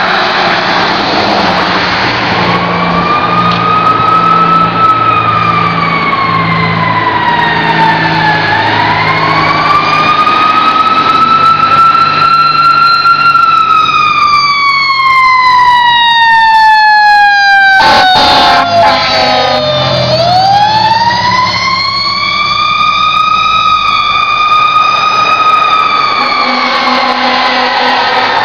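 Fire engine siren wailing, its pitch sweeping slowly up and down, with the truck's engine heard underneath. About two-thirds of the way through, the wail glides down to a low point, with a brief loud burst, then winds back up.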